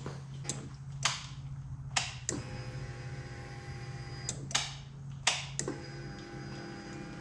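A steady low hum with about eight sharp clicks and knocks of hands and parts being handled. From about two seconds in until near the end, a steadier, higher whir of several tones sits over the hum.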